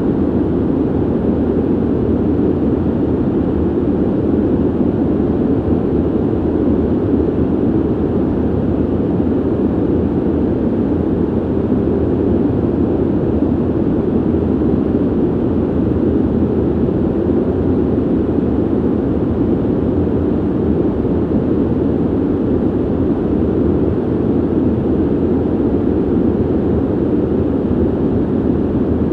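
Steady ventilation noise: an even, low rushing of air with no tones or changes.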